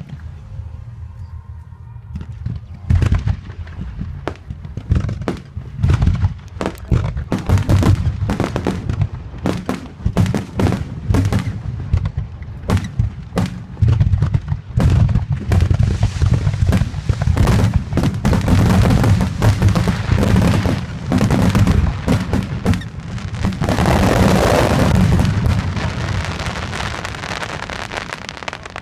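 Aerial fireworks bursting in rapid succession, a dense run of sharp bangs and deep booms beginning about three seconds in. Near the end a thick rush of crackling noise swells for a second or two.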